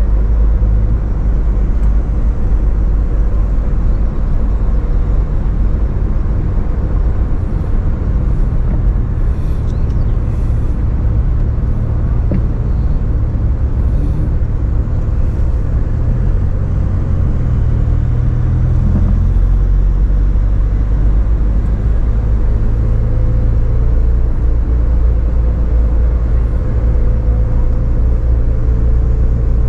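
Toyota AE86 Sprinter Trueno's inline-four engine running steadily at an easy parade pace, heard from inside the car along with road rumble. The engine note shifts briefly about halfway through as the throttle or gear changes.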